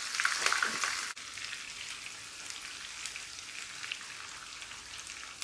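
Sliced onions and green chillies sizzling in hot oil in a frying pan: a steady crackling hiss. A brief break comes about a second in, after which it runs a little quieter.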